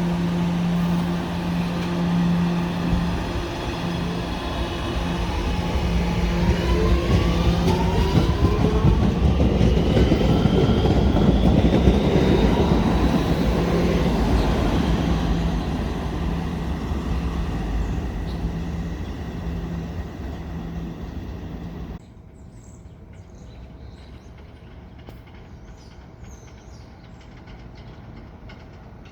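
Staten Island Railway electric train pulling out of a station and accelerating past. Its propulsion whine climbs in pitch over a steady low hum, and wheel and rail noise swells to a peak and then fades as it moves off. About two-thirds of the way through, the sound cuts to a much quieter background.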